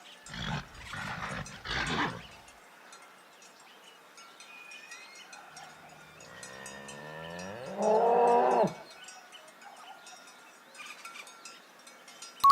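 Bull mooing: one low, drawn-out bellow that rises in pitch and then holds, about six to nine seconds in. It is preceded by two short breathy noises near the start.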